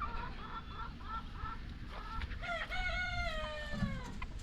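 Chickens clucking in a quick run of short notes, then a rooster crowing once: one long call that falls away at the end, about four seconds in.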